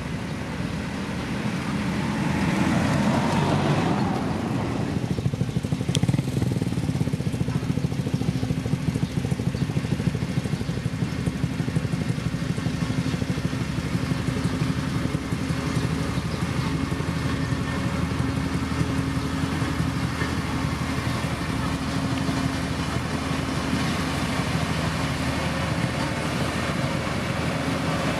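Diesel engine of heavy road-construction machinery running steadily, with a louder surge about three seconds in that falls away.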